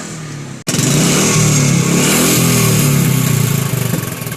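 Royal Enfield Bullet motorcycle's single-cylinder engine running and revving as it is ridden, with a strong rushing hiss over it. The sound cuts in abruptly about half a second in.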